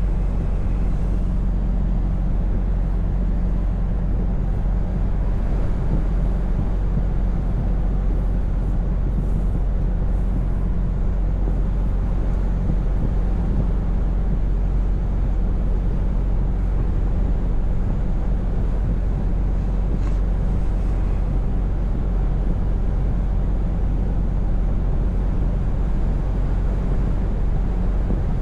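Scania V8 truck engine running steadily while driving, a constant low hum over road noise.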